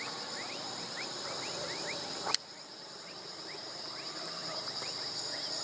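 Steady high-pitched insect chorus, with short rising chirps repeating a few times a second. A single sharp click about two seconds in.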